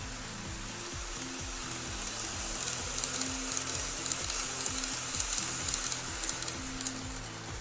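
N-scale model trains running on the track: a steady rolling hiss from the small wheels, with light clicks as they cross the rail joints. It grows louder through the middle as a train passes close, then eases off near the end.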